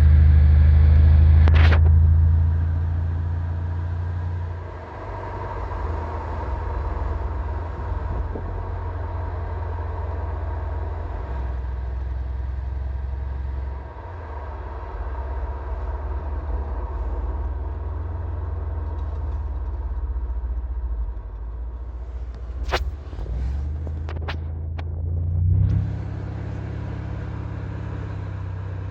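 Mercedes CLS 500's M278 twin-turbo V8 running through a 76 mm Friedrich Motorsport cat-back sports exhaust: a deep low rumble, loud for the first couple of seconds and then settling lower, with the pitch stepping several times as the revs change. A few sharp cracks come near the end.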